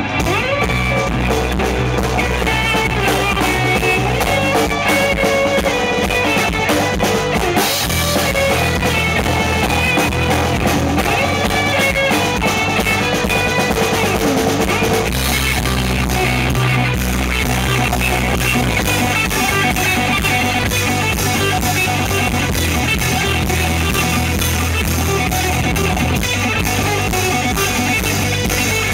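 Rock band playing live: drum kit, guitar and bass.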